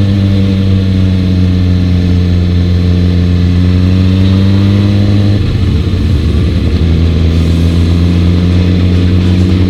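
Vehicle engine running at near-constant revs, a steady drone whose pitch creeps slightly up, broken briefly about halfway through before settling back to a steady note.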